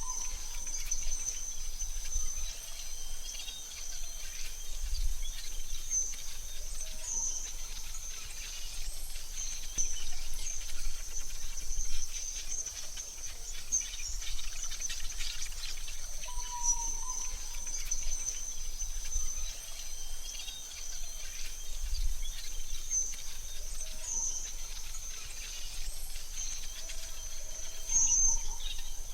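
Forest ambience: a steady high-pitched insect drone, with scattered short bird chirps and calls over a faint low rumble.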